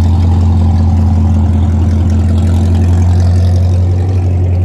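Car engine running with a steady, loud low drone that holds the same pitch throughout.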